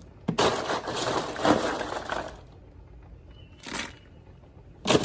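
Ice being dumped into the pot of hot seafood-boil water, clattering and crunching, to kill the boil and stop the cooking. There is one pour of about two seconds just after the start, a brief rattle in between, and another pour near the end.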